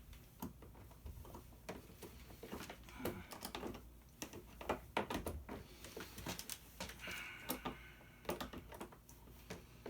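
Pliers clicking and gripping against hard plastic toy parts, making irregular small clicks and knocks, with a brief squeak about seven seconds in.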